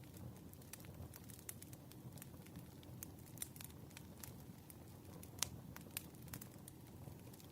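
Burning firewood crackling faintly: irregular pops and snaps over a soft low rumble, with one sharper pop about five and a half seconds in.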